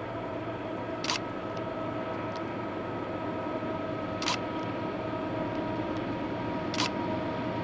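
CSX freight train led by GE diesel locomotives drawing near, a steady rumble with a faint steady whine that slowly grows louder. Three sharp clicks come about two and a half seconds apart.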